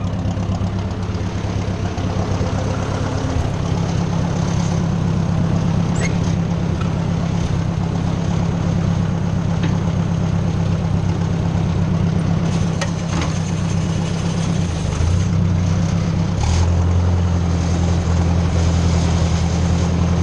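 1957 Ford 600 tractor's four-cylinder engine running steadily. About 16 seconds in, the engine note drops lower and gets stronger, with a few light clicks along the way.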